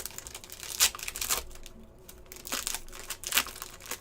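Foil wrappers of hockey trading-card packs crinkling and tearing as packs are opened and cards handled, with several sharp crackles.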